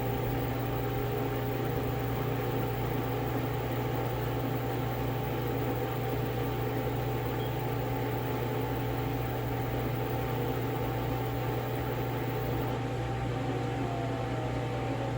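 LG front-load washing machine running after a drum bearing replacement: a steady motor and drum hum with a few constant tones, and one tone gliding down in pitch near the end.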